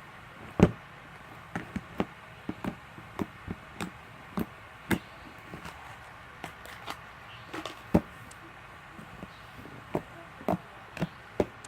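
Glossy bubbly slime being poked and pressed by fingers, giving a string of irregular sharp clicks and pops, the loudest about half a second in and again about eight seconds in.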